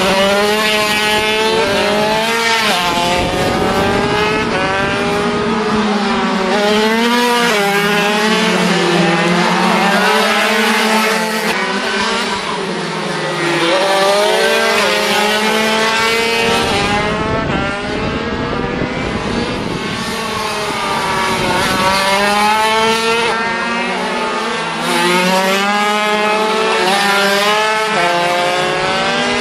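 Several high-pitched 50cc two-stroke racing motorcycle engines running hard at once. Their overlapping notes keep rising with the revs and dropping as the riders change gear and brake.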